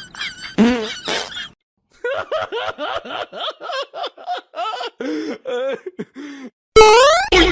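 A run of short, high-pitched, laugh-like vocal bursts, several a second, after a brief break about two seconds in. Near the end comes a loud rising whistle-like glide.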